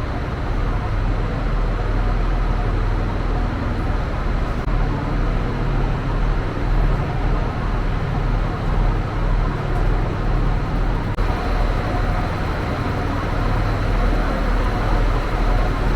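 Passenger train in motion: a steady low rumble with a noisy hiss above it, unbroken throughout.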